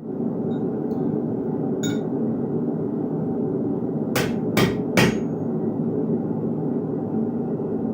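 Blacksmith's hammer striking iron on an anvil: a light tap, then three sharp blows about half a second apart, the last ringing briefly. Under the blows runs a steady low rushing noise that begins at the start.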